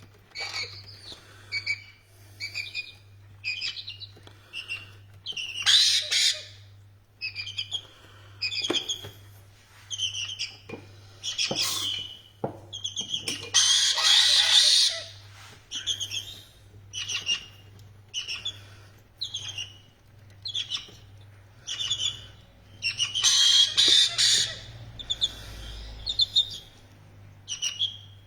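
Captive parrots calling: short chirping calls repeat about once a second, broken by louder harsh screeches about 6, 14 and 24 seconds in.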